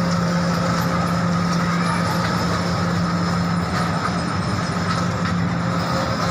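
Train running steadily, heard from on board the carriage: continuous rolling noise with a constant low hum.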